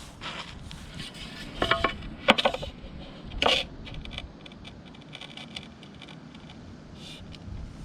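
A steel tool chopping out hardened concrete bedding: three sharp metallic strikes with a brief ring, about a second apart, followed by lighter clinks and scrapes of metal on concrete.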